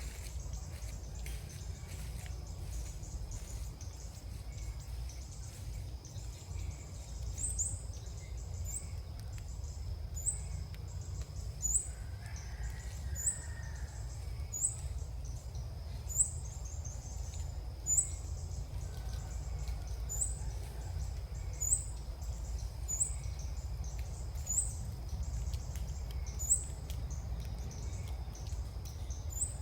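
Small bird giving short, high, upward-flicked chirps, repeated about every second or so, starting a few seconds in, over a steady low rumble.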